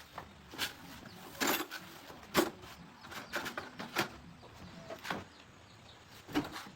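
Irregular knocks and clicks, about seven in all, from tools and parts being handled at the start of a motorcycle puncture repair; the loudest comes a little over two seconds in.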